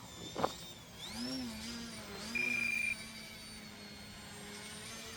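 Electric motor and propeller of an E-Flite Eratix 3D flat foam RC plane whining in flight, the pitch swinging up and down with the throttle. A short high beep about two and a half seconds in.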